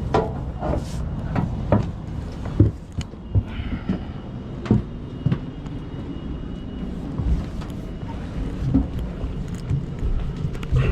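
Irregular knocks and clunks over a steady low rumble, as of someone climbing down a ladder through a roof hatch with gear.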